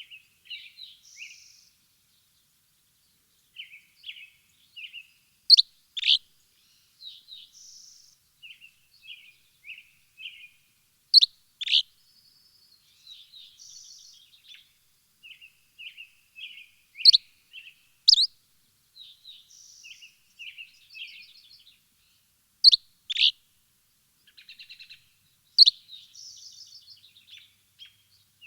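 Birds chirping: soft twittering with a pair of loud, sharp, falling chirps about every five to six seconds.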